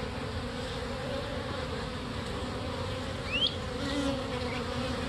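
A honey bee swarm buzzing steadily around an opened nuc box as its frames are lifted out, a continuous hum. A short rising squeak cuts in about three seconds in.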